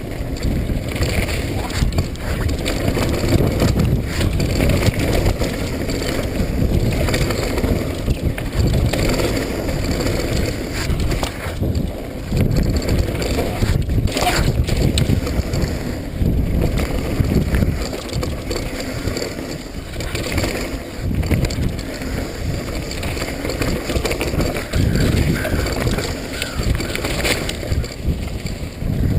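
Wind rushing over the microphone with a mountain bike's tyres, chain and frame rattling down a wet trail, one sharp knock about fourteen seconds in.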